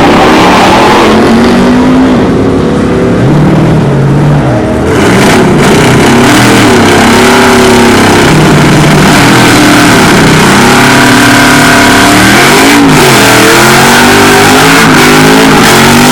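V8 truck engines on nitrous running at full throttle in a drag race, very loud. The engine pitch climbs and drops back several times as the gears change.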